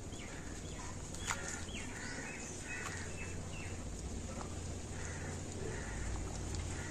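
Birds chirping in short, quick descending calls over a steady low hum and hiss, with one sharp tap about a second in.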